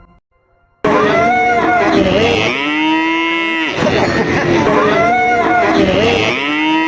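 Cattle mooing loudly, starting abruptly about a second in: two long, drawn-out moos a few seconds apart.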